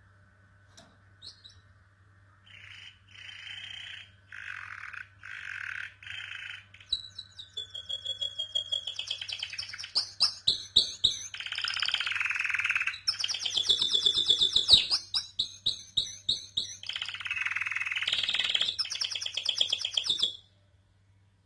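Domestic canary singing. The song begins softly with short repeated phrases about two and a half seconds in, builds into loud, rapid trills and warbles, and stops abruptly near the end.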